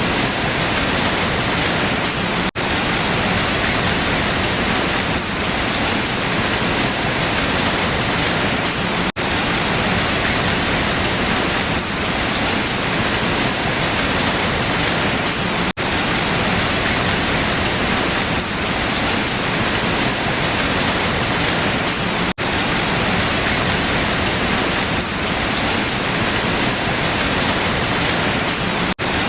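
Steady rain falling on leaves, an even hiss, broken by a brief dropout every six or seven seconds.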